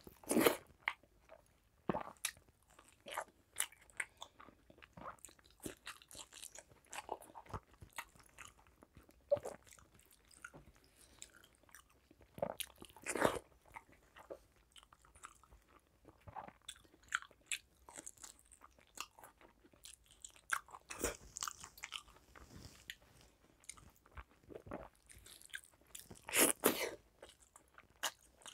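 Close-up eating sounds of a person eating rice and curry by hand: irregular chewing, biting and crunching with short clicks and crackles, loudest just after the start, around the middle and shortly before the end. Fingers mixing rice on the plate between mouthfuls add soft clicks.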